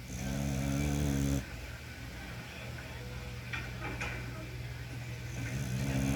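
American Bully dog snoring: two long, loud snores with a steady pitch, one at the start and another near the end, each lasting over a second.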